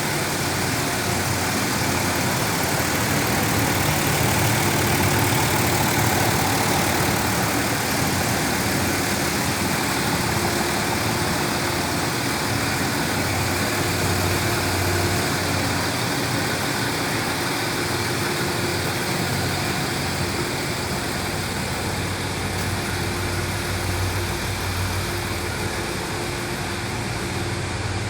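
Land Rover Discovery 3's 2.7-litre V6 turbo diesel idling steadily.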